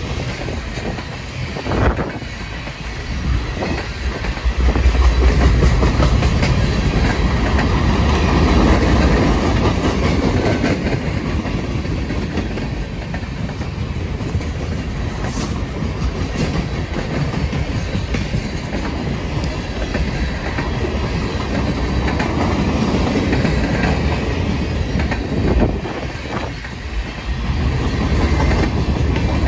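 Freight cars of a CSX manifest train rolling past close by: a steady rumble of steel wheels on the rails, broken by repeated clacks and a few sharper knocks as the wheels cross rail joints.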